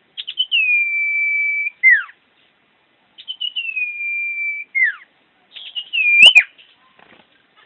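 Common iora singing: a few quick notes leading into a long, steady whistle that ends in a quick falling note, three times. A sharp click comes about six seconds in.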